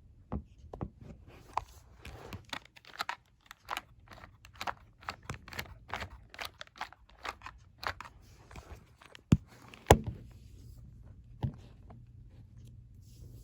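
Irregular clicks, taps and rustles of handling a small model engine, with two sharp knocks a little after nine and ten seconds; after the second knock a faint steady low hum sets in.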